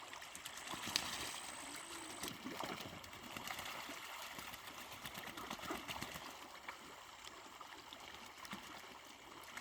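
Water trickling and gurgling, with many small splashes. A thin high steady tone sounds over it for the first two seconds or so.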